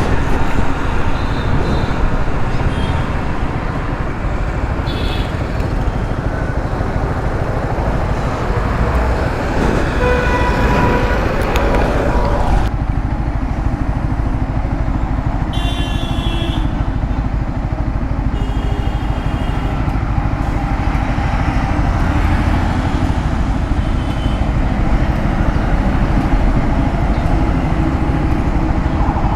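Yamaha R15 V3 motorcycle running on the road in traffic, a steady rumble of engine and wind on the camera microphone. Vehicle horns sound around ten seconds in and again twice later, and the hiss drops abruptly about halfway through.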